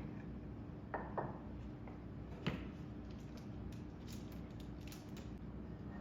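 A few light clicks and knocks of small objects being handled: two close together about a second in, a sharper one around two and a half seconds, then faint ticks, over a steady low hum.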